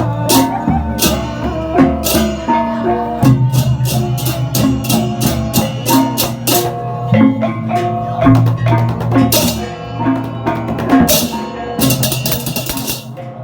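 Gamelan-style ensemble music: struck metal keyed instruments play interlocking pitched notes over a sustained low tone, with drum strokes and bright cymbal crashes, densest near the end.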